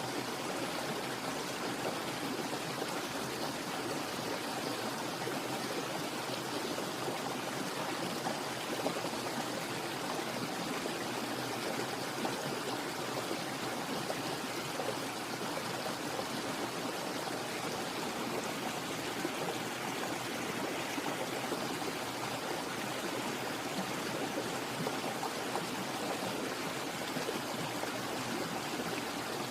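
Steady, even rush of flowing water with no changes or breaks.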